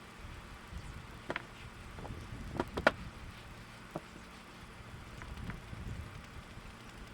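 A few scattered knocks and clicks of wooden boards and tools being handled, the loudest about three seconds in, over a low steady hum.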